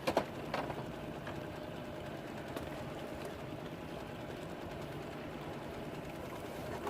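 Boat engine running steadily, a low even hum, with a couple of brief knocks right at the start.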